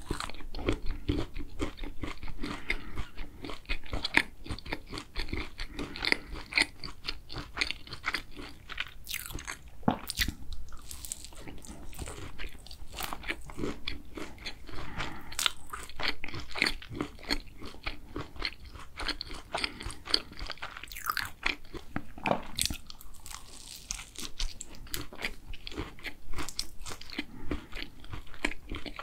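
Close-up chewing of pecan tart: crunchy bites through the pastry crust and pecans, then steady crunching and mouth sounds as it is chewed.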